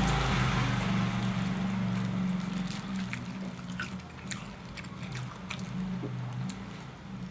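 Motorbike engines running on the road, loudest in the first couple of seconds, with small sharp clicks and smacks of eating chicken by hand from about three seconds in.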